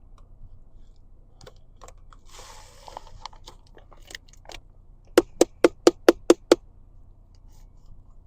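Light handling clicks and a short rustle, then seven quick, sharp taps of a hard object on a hard surface, about five a second.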